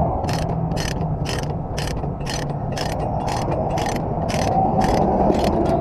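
A tie-down ratchet being worked in steady strokes, clicking about twice a second, over a low engine rumble.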